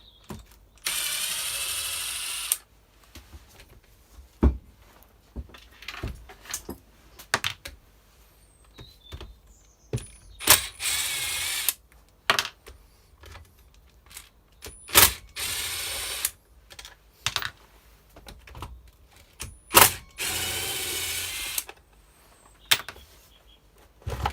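A cordless power driver runs in four short bursts of about a second or so each, undoing fasteners on a Stihl FS240 brush cutter. Between the bursts come scattered clicks and knocks of tools and plastic and metal parts being handled.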